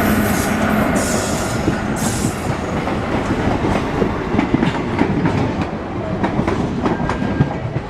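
A moving train: a steady rumble with frequent short clicks and clacks, and a few bursts of hiss in the first couple of seconds.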